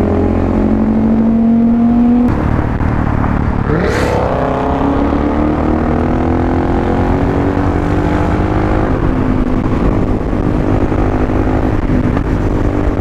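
Suzuki DR-Z400SM single-cylinder supermoto engine under way in traffic, with wind rumble on the microphone. Its pitch rises for about two seconds, then drops suddenly as the throttle is rolled off or a gear is changed. About four seconds in, another engine note sweeps quickly upward, and then the bike runs on at a steadier pitch.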